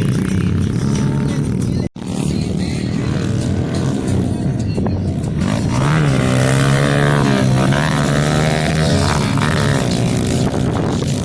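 Small four-stroke pit bike engines running and revving, their pitch rising and falling. The sound cuts out for an instant about two seconds in.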